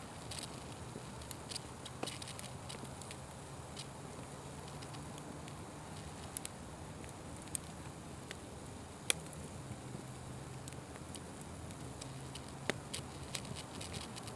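Wood fire crackling, with irregular sharp pops over a steady hiss; the loudest pop comes about nine seconds in.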